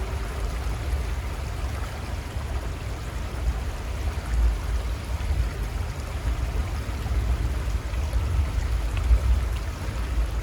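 The Little Conestoga River flowing with a steady rushing of water, with a low, uneven rumble underneath.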